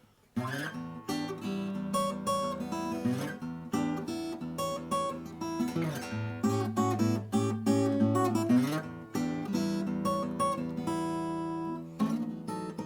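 Vintage 1970s Japanese steel-string acoustic guitar being played, a mix of strummed chords and picked notes, starting about half a second in after a moment of quiet.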